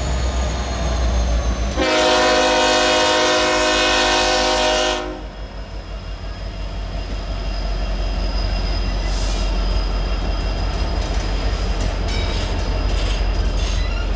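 Union Pacific freight train passing close by with a steady low rumble. About two seconds in, a multi-note train horn sounds for about three seconds and cuts off suddenly. As double-stack container cars roll past, the wheels click on the rails, more often near the end.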